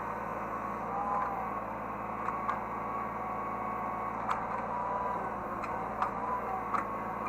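Hydraulic excavator running, heard from the operator's seat: a steady engine drone with a hydraulic whine that rises and falls in pitch as the controls are worked, and a few light clicks and knocks.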